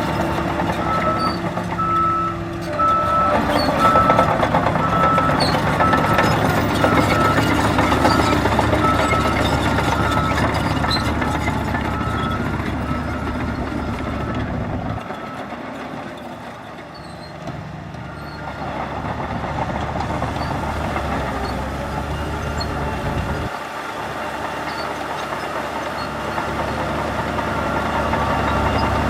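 Heavy diesel earthmoving machines, a bulldozer and dump trucks, running under load, with a reversing alarm beeping about twice a second through the first half; the beeping stops about halfway through while the engines keep running.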